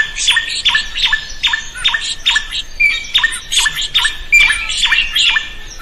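Drongo (srigunting) singing: a fast, even series of sharp notes, each dropping steeply in pitch and ending in a short held whistle, about two to three a second.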